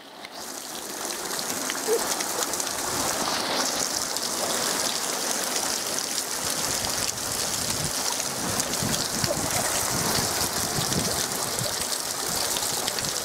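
Heavy rain pouring down and splashing into standing water on concrete. It fades in over about the first second, then holds steady.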